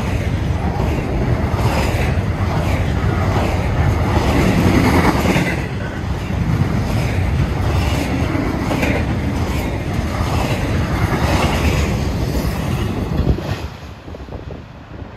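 Double-stack intermodal container train rolling past close by: a loud, steady rumble of well-car wheels on the rails with repeated clickety-clack of wheels over rail joints. About 13.5 seconds in, the sound drops sharply to a quieter, more distant rumble as the train recedes.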